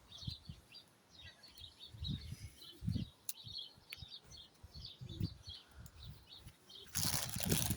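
Birds chirping, many short high chirps, with a few low thumps of handling, then loud rustling near the end.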